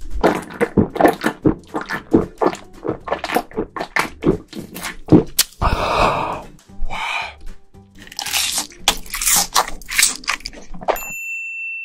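Close-miked crunching and chewing of fried chicken and fried snacks over background music, with a breathy 'ahh' after a swig of beer about six seconds in. A steady electronic beep starts near the end.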